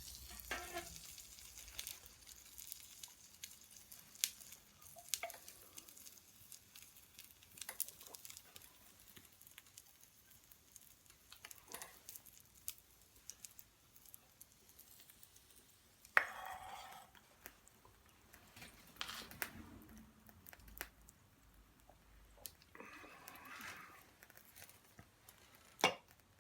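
Food sizzling faintly in a small frying pan over a fire, with scattered small pops and crackles and a few louder knocks of handling now and then. The sizzle is fainter after the first few seconds.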